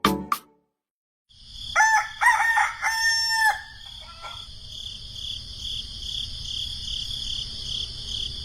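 A rooster crowing in three drawn-out phrases, over a steady high drone of insects.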